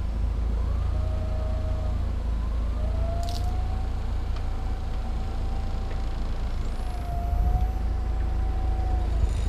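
Forklift running, its hydraulic whine wavering in pitch, rising about three seconds in and dipping near the end, over a steady low engine rumble, with a brief high clink about three seconds in.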